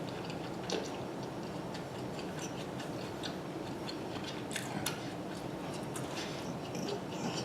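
Close-up chewing of food, a string of small wet mouth clicks and smacks at an uneven pace, over a steady low room hum.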